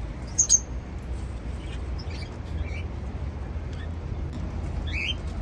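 Cockatiels chirping in short, high calls: a louder one about half a second in, a few faint scattered chirps, and a quick run of chirps near the end, over a steady low hum.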